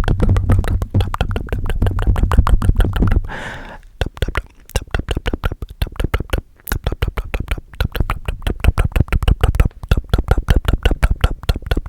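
Fast, aggressive ASMR tapping close to a very sensitive microphone. For the first three seconds or so the taps are dense and heavy with a low hum under them; after a brief hiss they turn into quick, even taps at about eight or nine a second.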